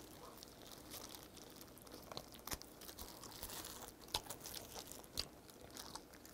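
Faint, close-up chewing and biting on braised pork trotter, gnawing meat off the bone, with wet smacks and scattered clicks. A couple of sharper clicks come about two-thirds of the way through.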